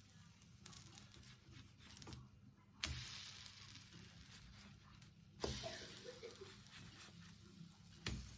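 Kitchen noises: three sharp knocks, each followed by a hiss that fades over a couple of seconds.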